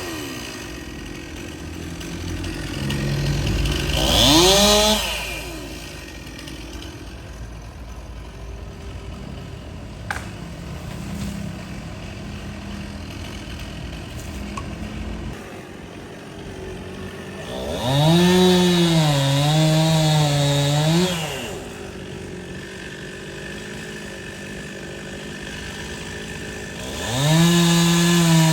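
Stihl two-stroke chainsaw idling, with a short rev a few seconds in, a longer full-throttle run about two-thirds through whose pitch dips and rises as it cuts, and another rev near the end.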